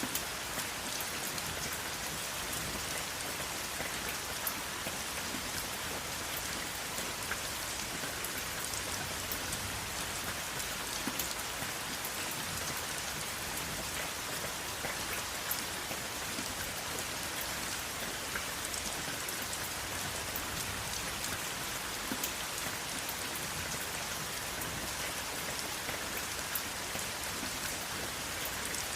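Steady rain falling, an even hiss with many individual drops pattering close by, and no thunder.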